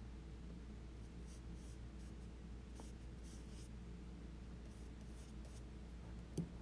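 Faint, soft strokes of a paintbrush with oil paint brushed across Arches oil paper, several short strokes a second or so apart, over a low steady hum.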